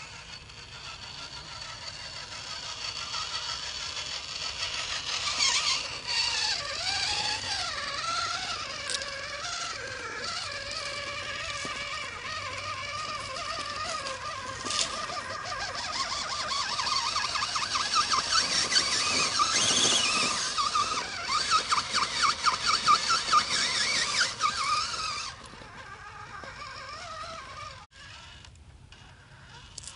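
Scratch-built radio-controlled scale Toyota Blizzard truck driving, its motor and gearbox whining and rising and falling in pitch with the throttle. A fast chattering pulse comes in near the middle. The whine drops away sharply a little before the end.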